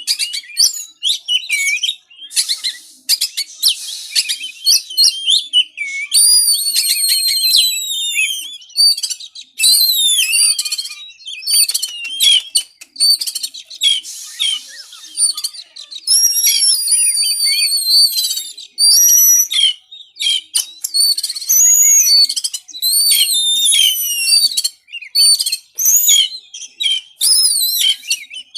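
Oriental magpie-robin (kacer) in fired-up, agitated song: a fast, near-continuous run of loud, varied whistled phrases with many falling glides, broken by short pauses. This is the kind of song used as a master track to provoke a caged bird into singing.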